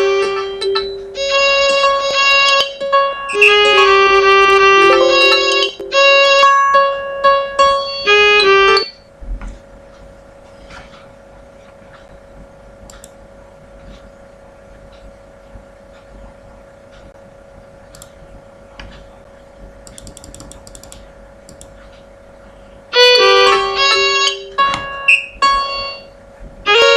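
Computer-generated MIDI music: quick runs of high-pitched, piano-like synthesized notes. About nine seconds in it stops, leaving only a faint steady hum. The notes start again about four seconds before the end.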